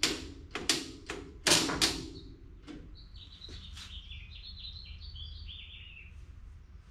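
A handful of sharp knocks and clunks in the first two seconds, then a small bird chirping and twittering in quick high notes for about three seconds, trailing off near the end.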